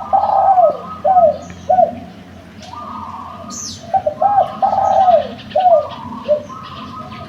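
Derkuku dove cooing: two runs of quick, arched coos, one at the start and one about four seconds in, with a steadier cooing tone between them. A short high chirp comes about three and a half seconds in.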